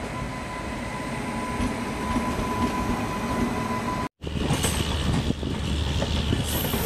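Running noise of a train close by as an electric locomotive and its passenger coaches pass on the adjacent track: a steady rumble with a thin high whine over it. About four seconds in the sound drops out for an instant, then comes back louder, with a low hum and wheel clatter.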